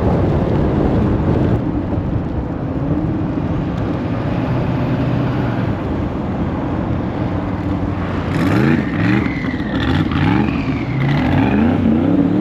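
A car's engine running loudly. From about eight seconds in it is revved up and down over and over, the pitch rising and falling quickly, with a higher whine that rises and falls with it.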